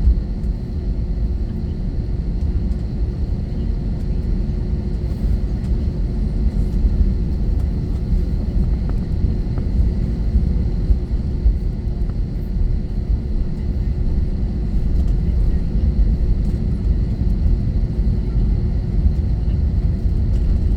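Airbus A321-231 airliner heard from inside the passenger cabin: a steady low rumble from its IAE V2500 engines and airframe, with faint steady whining tones above it.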